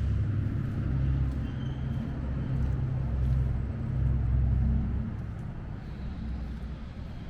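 Car engine and road noise: a steady low rumble that eases off about five seconds in.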